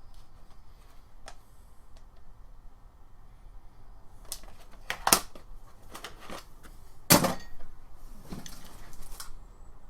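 Small metal parts and hand tools being handled on a workbench: a scatter of clicks and knocks, busiest in the second half, with the sharpest knock about seven seconds in.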